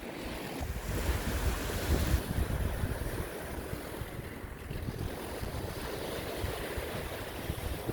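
Wind rushing and buffeting the microphone, with stronger low rumbling gusts about one to three seconds in.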